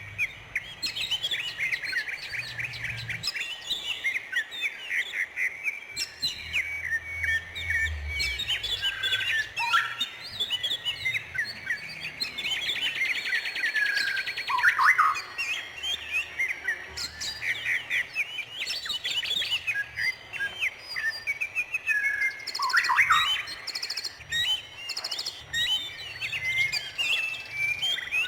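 Many birds chirping and singing at once, short quick notes overlapping without a break, with a fast buzzing trill about halfway through.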